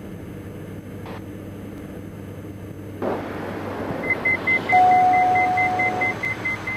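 Diamond DA42 cockpit drone heard through the intercom, growing louder about three seconds in as a rapid high-pitched warning beep starts and a steady lower tone sounds for over a second: cockpit warning tones set off by the simulated right-engine failure.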